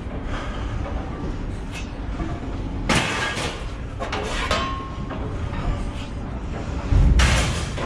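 Steady low rumble of a truck with a load of scrap metal, with metallic clanks and rattles. There are short clanks about three and four and a half seconds in, and a louder bang with a low thump about seven seconds in.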